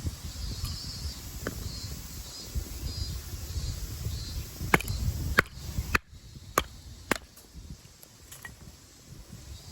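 Wood campfire crackling, with several sharp pops in the middle; a low rumble under the first part stops abruptly about six seconds in.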